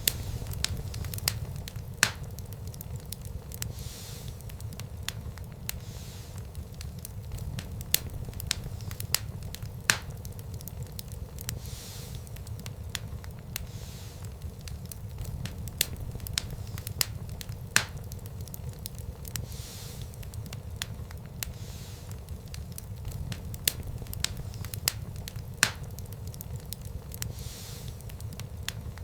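Wood fire burning in a fireplace: a steady low rumble of the flames with sharp crackles and pops every few seconds, a handful of them louder than the rest.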